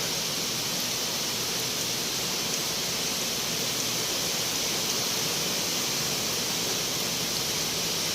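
A steady, even hiss of noise.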